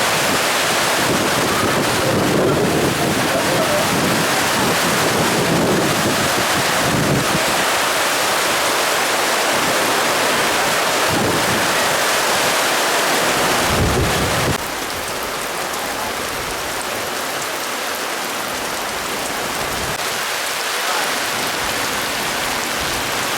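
Heavy rain pouring down with wind gusting in waves, the gusts rumbling on the microphone. The wind eases a little about two-thirds of the way through, leaving a steady rain hiss.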